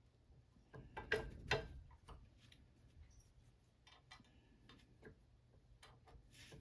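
Light clicks and taps of small metal parts being handled during work on an Olympic barbell sleeve, the two loudest close together about a second in, then scattered fainter ticks.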